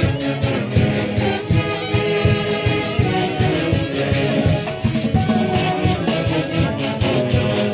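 A live Peruvian orquesta típica playing festive dance music: wind instruments and strings over a steady, regular beat.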